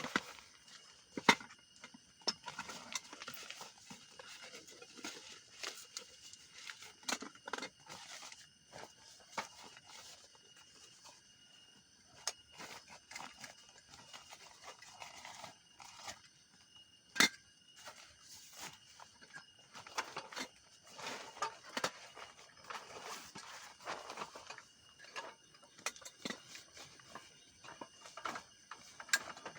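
Campfire crackling: irregular sharp pops and snaps, the two loudest about a second in and just past halfway, over a faint steady high-pitched background.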